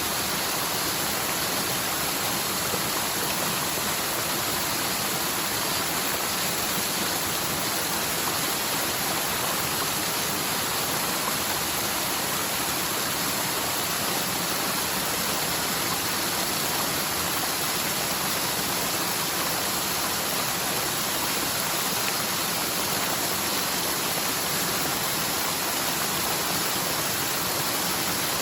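Forest mountain stream, normally almost dry, running high after a typhoon's heavy rain: a steady rush of water tumbling downhill.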